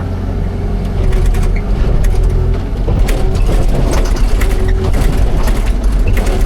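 Excavator's diesel engine running steadily with a low rumble, with frequent metallic clanks and rattles from the machine working.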